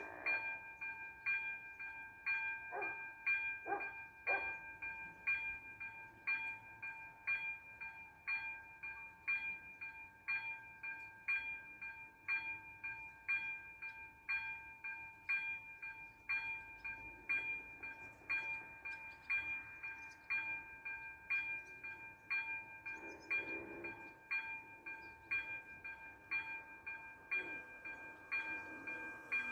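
ZV-02 electronic level-crossing bell ringing: a bright bell tone struck at an even, repeating pace, the crossing's warning that a train is coming.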